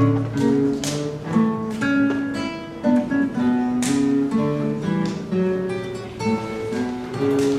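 Acoustic guitars playing a baroque piece, a busy line of plucked notes over lower notes. A low held bass note dies away just after the start.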